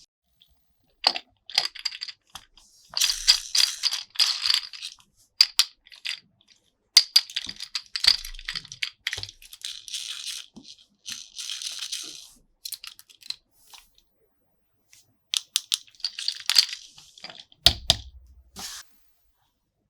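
Plastic toy parts and packaging being handled: irregular clicks, rattles and crinkly rustling in bursts with short pauses, with a dull thump near the end.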